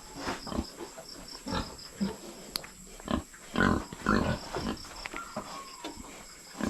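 Pigs grunting in a series of short, irregular grunts, loudest about halfway through.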